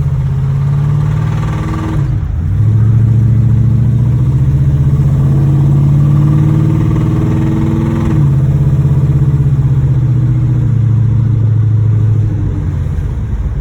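1986 Monte Carlo SS's V8 engine, which has a rod knock, pulling the car under acceleration: its note climbs, drops back about 2 seconds in and again about 8 seconds in like gear changes, then holds steady and eases off near the end.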